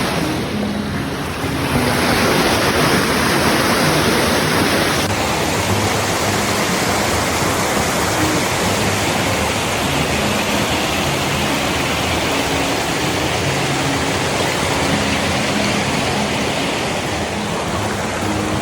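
Loud, steady rush of creek water cascading over rocks, with abrupt shifts in tone about two and five seconds in.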